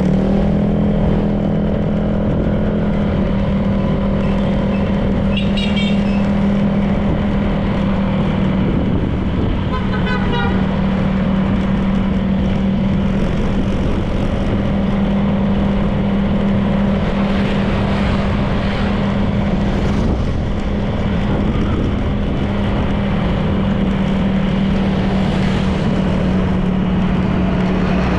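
Honda PCX 160 scooter's single-cylinder engine running at a steady cruising speed, with wind and road noise. Two brief high chirping sounds come through about five and ten seconds in.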